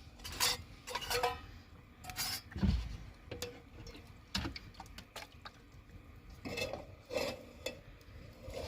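Irregular knocks, clinks and scrapes of hard objects being handled, with one dull low thump about a third of the way in.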